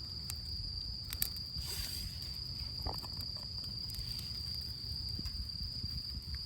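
Insects trilling steadily at one high pitch, with a few sharp crackles from a small campfire of damp twigs just catching, about a second in.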